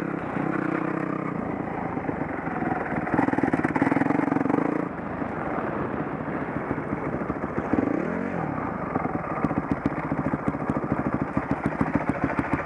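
Dirt bike engine running under throttle, revving louder for a couple of seconds about three seconds in, then the pitch drops and climbs again about eight seconds in.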